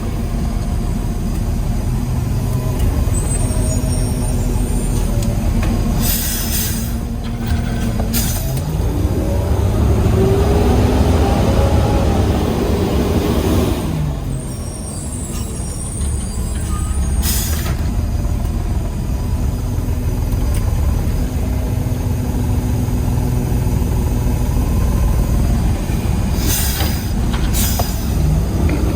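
Diesel engine of a Peterbilt 320 side-loader garbage truck running steadily, heard from inside the cab, with several short sharp air hisses. Once, for several seconds, the engine revs up and back down.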